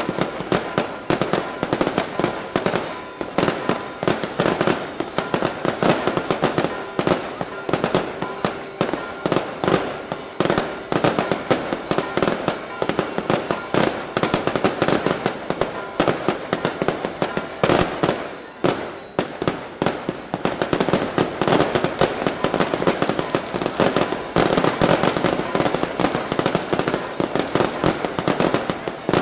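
A daylight fireworks barrage: a dense, rapid string of firecracker bangs going off many times a second with hardly a gap, easing only briefly about two-thirds of the way through.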